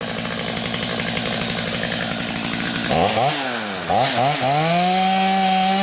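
Chainsaw running under load while cutting birch wood. About three seconds in, the engine speed dips and rises several times as the chain bites, then it holds at a steady high pitch.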